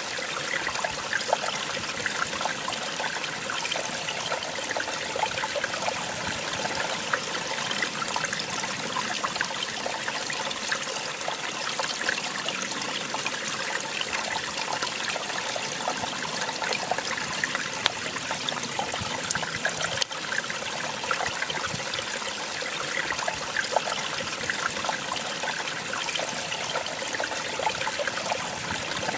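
Small waterfall, water splashing and trickling steadily, a light, hissy rush with little deep rumble.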